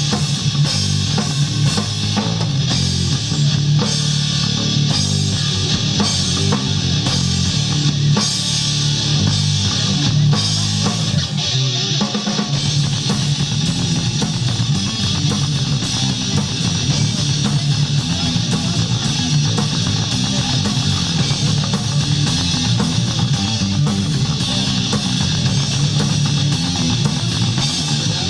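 Rock band playing loudly, with a drum kit and guitars; the low end drops out briefly about twelve seconds in.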